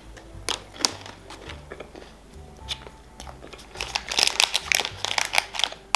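Crunchy chewing of a peanut-caramel-raisin candy bar, then a candy wrapper crinkled by hand for the last two seconds or so, over soft background music.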